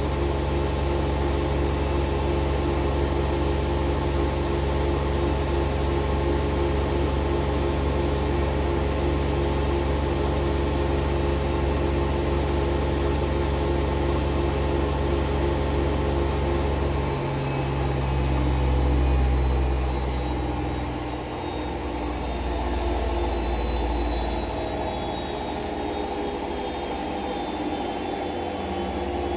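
Siemens washing machine in its spin cycle: the drum spins steadily at high speed with a loud hum and motor whine, then a little over halfway through the whine begins to fall slowly as the drum slows down.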